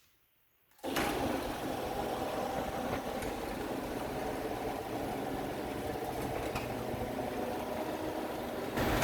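Old screw-drive garage door opener starting up about a second in and running steadily, its motor and screw rail driving the door with a continuous mechanical drone; the low hum grows louder near the end. The openers are lubricated but, being screw drives, still noisy.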